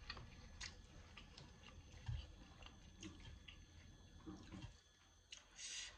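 Faint eating sounds of fried noodles: quiet chewing with scattered small clicks, and a short hiss near the end.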